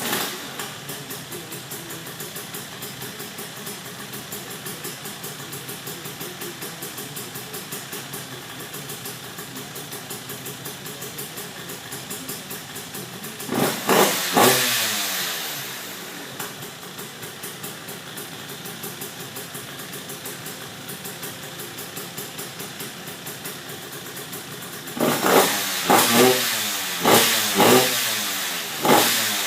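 KTM 85 two-stroke engine in a Yamaha Blaster 200 race quad, catching and then idling with a fast, steady pulse on its first start-up. It is blipped twice in quick succession about halfway through, then revved in a run of short blips near the end.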